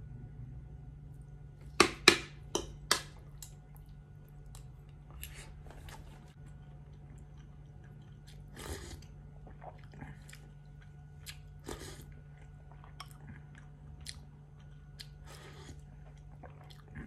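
Close-miked eating sounds of a man chewing soft beef and rice and sipping broth from a spoon. A quick run of four loud sharp mouth smacks comes about two seconds in, with scattered softer clicks and smacks after.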